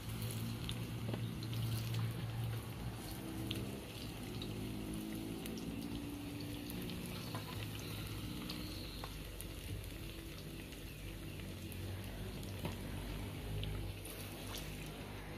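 Plantain slices frying in hot oil in a black iron pot: a steady sizzle with scattered small pops and clicks.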